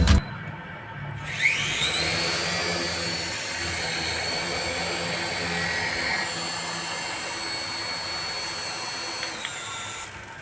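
Small electric motor of a homemade toy helicopter spinning up about a second in, then running with a steady high whine that cuts out near the end.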